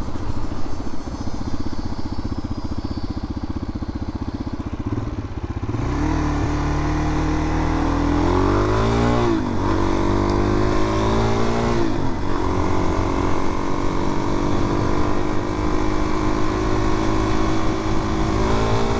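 Suzuki DR-Z400's single-cylinder engine, running steadily at first, then opening up about six seconds in. The revs rise, drop back twice as it upshifts, and then settle into a steady cruising note.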